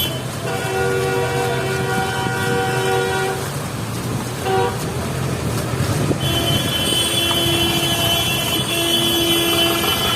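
Vehicle horns honking in street traffic over running engines. One horn is held for about three seconds, then there is a short toot, and from about six seconds in another long horn sounds.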